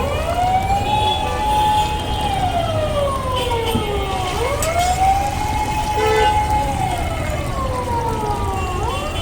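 A siren wailing in repeated cycles: each one rises quickly, holds a high note for about two seconds, then slides slowly down, coming round about every four and a half seconds. A steady low rumble lies underneath.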